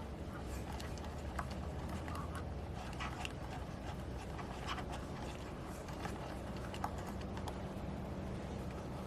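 Steady low wind rumble with scattered light knocks and clicks.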